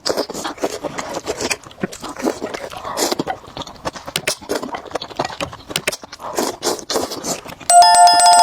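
Close-miked eating: dense crunching, chewing and lip-smacking clicks of food being bitten and chewed. Near the end a loud ringing chime of two steady notes comes in and holds.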